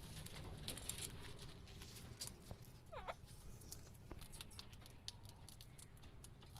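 Alexandrine parakeet giving one short, faint call about three seconds in, over scattered light clicks and scratching.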